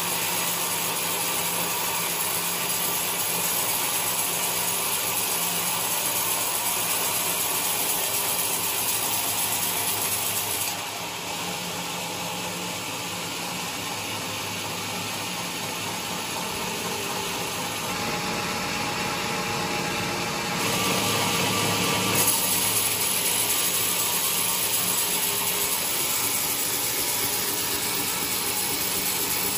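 Sawmill running and sawing a coconut log: a steady machine and cutting noise that drops back about eleven seconds in and grows louder again a little after twenty seconds in.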